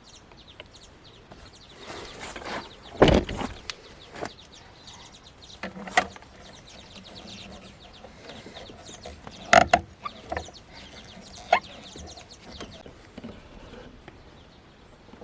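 Scattered knocks and clunks of wood blocks and lifting gear being handled while a small sailboat is raised onto wood, the loudest about three seconds in and two close together near ten seconds.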